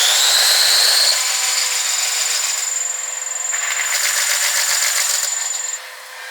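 Electric train passing through a level crossing: its traction-motor whine rises in pitch over the first second over the rush of wheels on rail, with a rhythmic clatter of wheels over rail joints in the second half, then it drops away sharply near the end.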